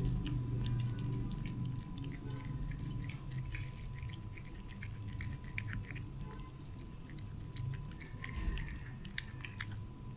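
A cat chewing and eating its food, with many small, irregular crisp clicks from the bites.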